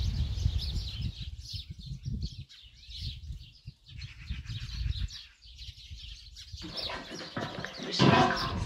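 Small birds chirping in quick short calls over a low rumble. About seven seconds in, a louder, denser sound takes over.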